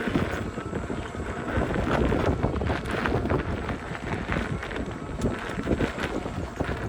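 Wind buffeting the microphone of a rider on a moving electric unicycle, a steady rumble with many small knocks and rattles from riding over rough ground.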